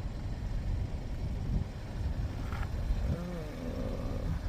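Steady low rumble of a vehicle on the move, with a brief voice sound about three seconds in.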